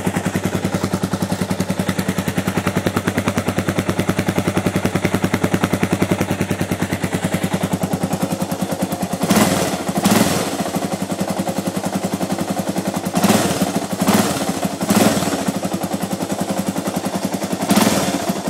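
Yamaha XT600Z Ténéré's single-cylinder four-stroke engine running through an aftermarket Kedo Devil header and GSX-R1000 silencer, idling with a fast, even beat on its first run after a rebuild. Several short blips of the throttle come in the second half.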